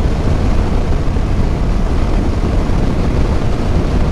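Motorcycle running at a steady cruise, a low engine rumble mixed with wind noise.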